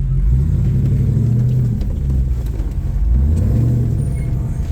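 Off-road vehicle engine revving in several swells, the pitch rising and falling, as the rig is driven against a large rock it is hung up on.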